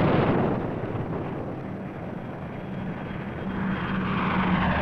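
Steady roaring rumble of a fighter plane's engine on a wartime film soundtrack. It dies down somewhat midway and swells again near the end.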